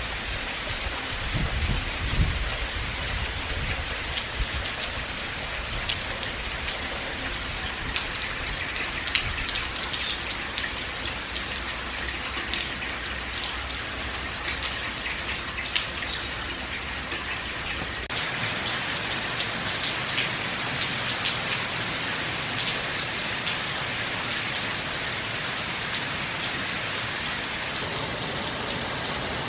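Steady rain with a wood fire crackling and popping in a fireplace, the pops sharp and scattered. A low rumble runs under it and drops away partway through.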